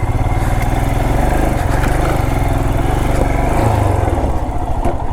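Royal Enfield Himalayan single-cylinder motorcycle engine running at low speed, pulling the bike along a rough off-road trail, its steady thudding beat easing slightly a little past halfway.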